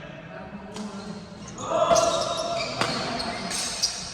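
Badminton rally in a hall: sharp racket strikes on the shuttlecock, one about three seconds in and another near the end, with short shoe squeaks on the court and spectators' voices swelling about halfway through.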